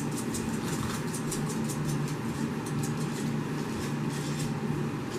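French Bulldog puppies play-fighting and scuffling, with many quick light clicks and taps, over a steady low hum.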